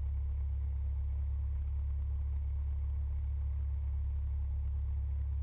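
Cessna 172 engine idling at about 1,000 rpm after the run-up, heard as a steady low drone.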